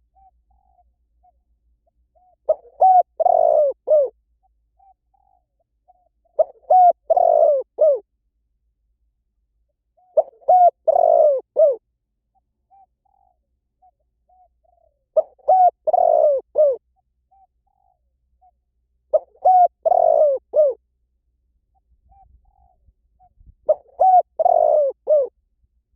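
Spotted dove cooing: a phrase of several coos repeated about every four seconds, six phrases in all, with faint short notes between them.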